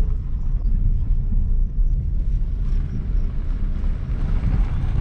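Steady low rumble of a car driving slowly, heard from inside the cabin, with a hiss of tyre and wind noise growing from about three seconds in.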